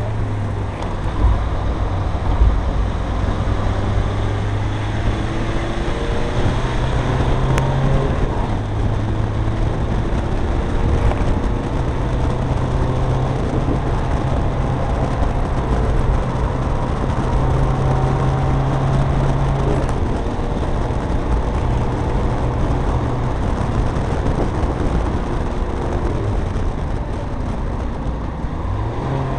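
Renault Kangoo's 64 PS diesel engine pulling hard at speed, with road noise. The engine note steps up and down as the revs change through the corners and gears.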